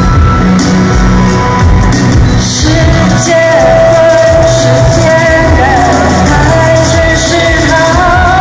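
A live band playing a pop-rock song, loud and full, with a singer's long held notes coming in about three seconds in.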